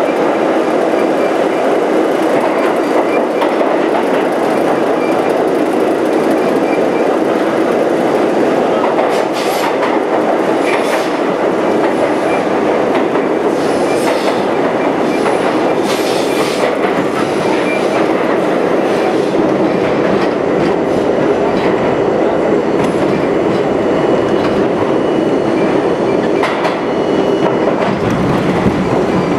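R32 New York City subway train running at speed, with steady rumble and clickety-clack of wheels over rail joints. Several brief high wheel squeals come in the middle stretch, and a click comes near the end.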